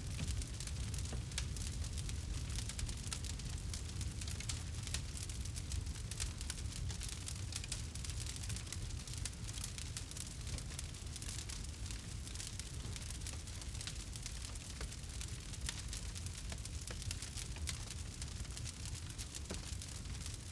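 Campfire burning: many small crackles and pops over a steady low rumble.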